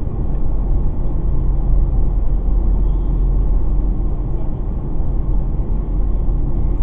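Steady low rumble of an electric commuter train heard from inside the carriage while under way: wheels running on the rails and the running gear.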